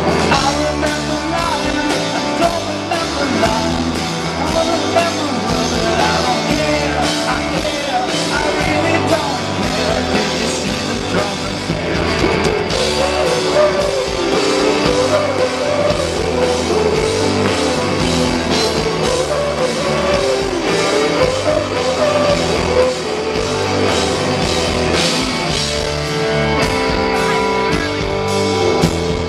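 Rock band playing live, with guitars, drums and a singing voice over a steady beat.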